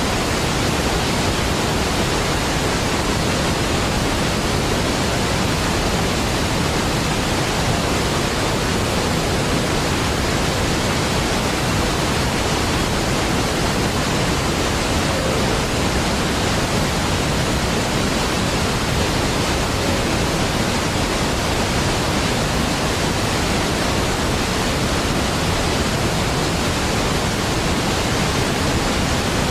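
Niagara Falls, a large waterfall, giving a steady, even rush of falling water with no changes or separate sounds.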